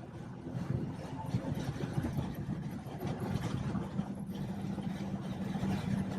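BMW 440i's turbocharged B58 inline-six running at highway speed, heard from inside the cabin together with road and tyre noise. A steady low drone sets in about halfway through.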